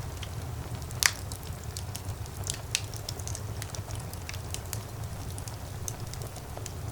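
Fire crackling in a fireplace: irregular crackles and pops over a steady low rumble of the flames, with a loud pop about a second in and another a couple of seconds later.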